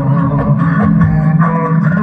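Loud music with heavy bass, mixed and played through a large parade sound system.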